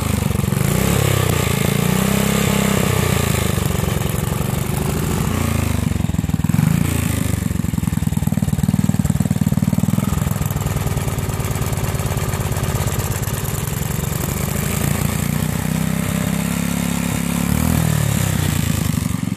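5 hp Briggs & Stratton single-cylinder small engine running steadily, its speed rising and falling a few times as the throttle is worked.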